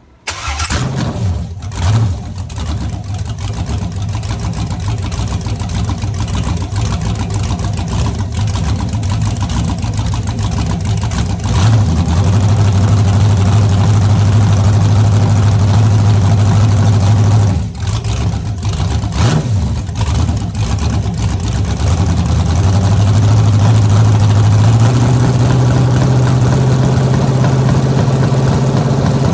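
Rebuilt iron-block 5.7-litre LS V8 fires up and runs, with a quick blip of throttle about two seconds in. It is held at a steady raised rev for several seconds, drops back with a couple of blips, then is held up again and steps higher near the end.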